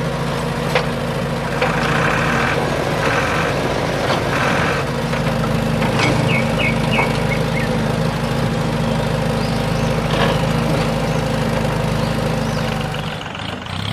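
Diesel tractor or truck engine running steadily at a constant speed, with a few short high chirps near the middle; the engine sound drops away just before the end.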